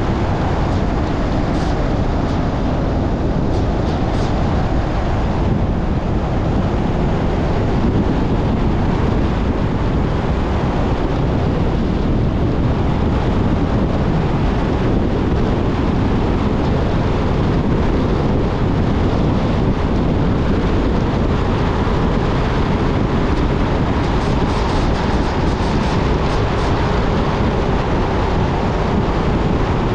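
A car driving at road speed: steady road and tyre noise with wind rushing past, even throughout.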